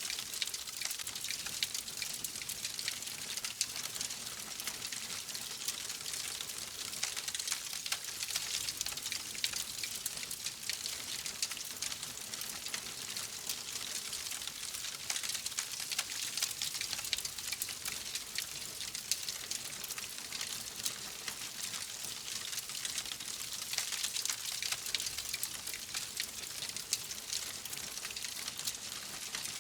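Fireplace fire crackling: a dense, steady run of small pops and snaps over a soft, even hiss.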